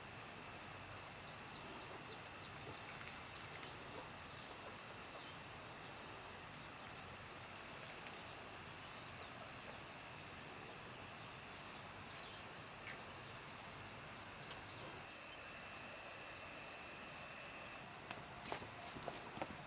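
Steady high-pitched drone of insects in the countryside, with quick insect ticking a couple of seconds in. A few sharp knocks come about two-thirds of the way through and again near the end.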